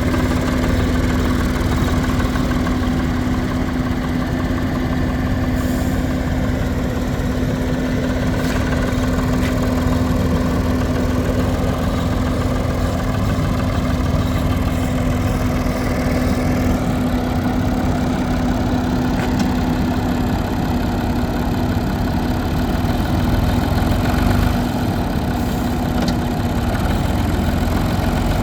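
International 484 tractor's three-cylinder diesel engine idling steadily.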